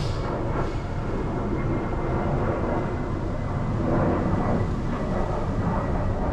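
Steady low rumbling noise, with a faint steady high tone above it.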